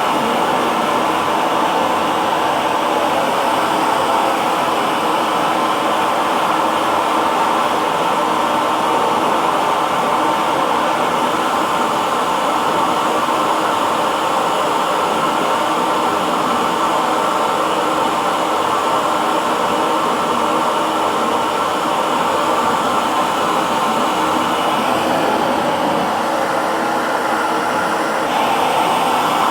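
Hair dryer running steadily: a constant blowing rush with a faint motor hum in it. Its tone shifts slightly near the end.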